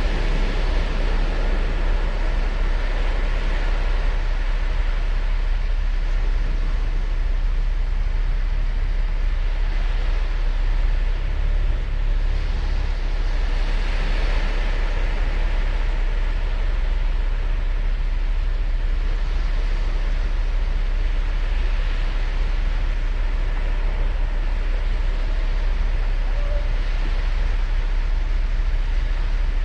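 Ocean surf breaking and washing up on the beach, with a steady low rumble underneath and a wave swelling louder every few seconds.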